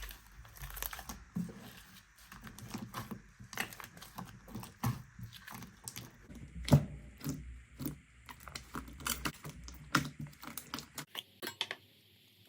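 Slime being squeezed and worked by hand, giving a rapid, irregular run of sticky clicks and pops that stops shortly before the end.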